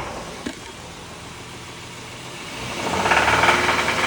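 2021 Honda Pilot's 3.5-litre V6 running with a rod knock, the sign of a bad rod bearing. It gets much louder about three seconds in, with a rapid knocking.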